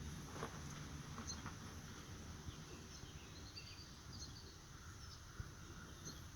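Quiet rural ambience: a steady high insect drone, with a few faint bird chirps about three to four seconds in.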